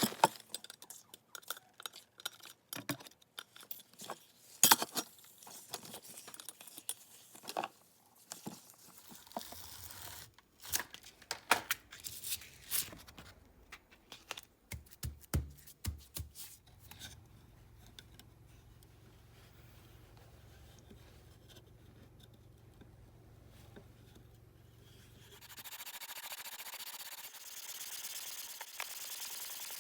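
Scattered sharp clicks and knocks of metal plane parts being handled. Near the end comes a steady, even scraping rub: the cast-iron sole of a Stanley No. 5 jack plane being worked back and forth on abrasive paper to flatten it.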